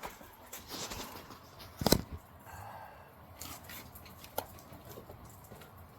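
Scattered clicks and knocks of hands and tools at work, with one sharp knock about two seconds in.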